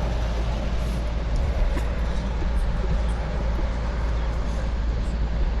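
Wind buffeting the microphone while riding, a steady deep rumble with a hiss of road and tyre noise under it.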